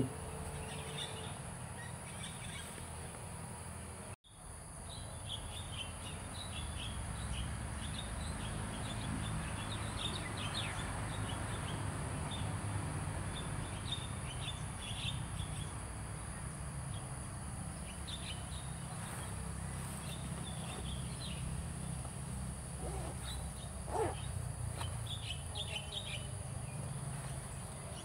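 Wild birds giving short, high chirps in small scattered clusters every few seconds, over a steady low background rumble.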